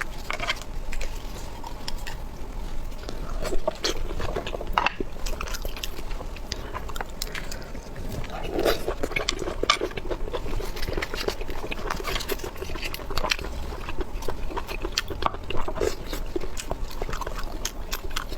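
Close-miked eating of sea snails (conch): chewing, biting and sucking at the meat, with a constant run of small wet clicks and crackles and a stretch of pitched slurping about halfway through.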